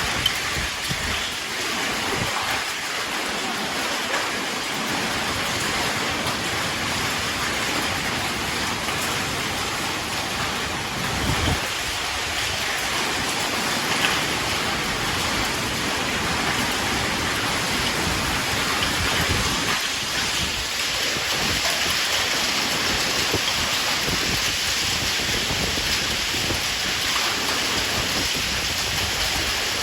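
Rain from a summer storm falling steadily, with a few brief low rumbles along the way.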